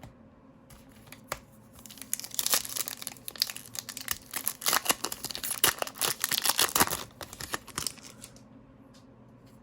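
Foil wrapper of a trading card pack being torn open and crinkled: a dense run of crackling for several seconds, starting about two seconds in and dying away near the end.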